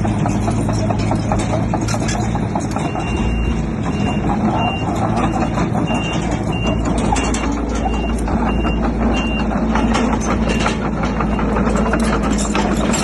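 Heavy diesel earthmoving machinery running steadily, with many sharp knocks and clatters. A reversing alarm beeps about twice a second, starting about three seconds in and stopping a few seconds before the end.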